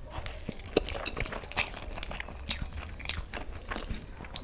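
Close-miked eating sounds: chewing with irregular crisp crunches and bites, a few sharper ones scattered through.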